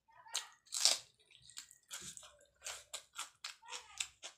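A person chewing food close to the microphone: a quick run of short, crunchy chews and bites, the loudest about a second in.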